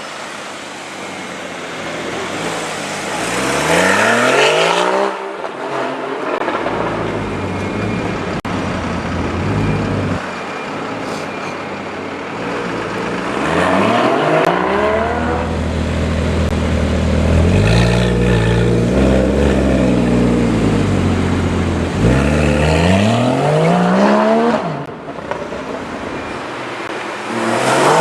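Porsche Cayman GTS flat-six engine and stock exhaust, loud, rising sharply in pitch four times as it revs or pulls away. Between the climbs it sits at a steady low drone, and it goes up and down in pitch for a few seconds around the middle.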